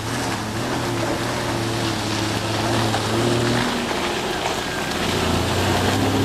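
Jeep Cherokee engine pulling off-road up a hill, its note holding steady, dropping away about three and a half seconds in, then picking up again near the end.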